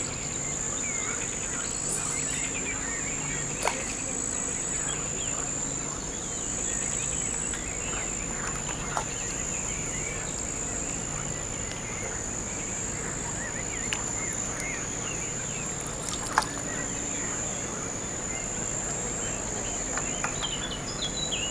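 Outdoor waterside ambience dominated by a steady high-pitched insect trill, with faint scattered bird chirps. A few sharp ticks stand out, the loudest about sixteen seconds in.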